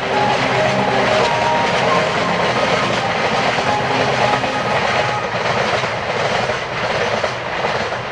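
N gauge model train running along the track: a steady rattling rush of wheels on rail, with faint regular clicks over the rail joints in the second half. Background music fades out over the first few seconds.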